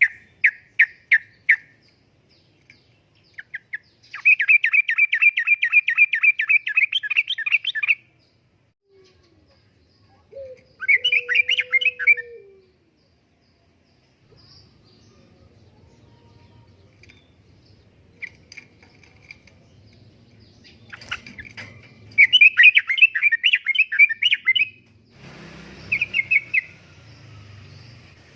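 Yellow-vented bulbul singing its lively, chattering song in repeated bursts of rapid notes, each phrase one to four seconds long, with pauses between.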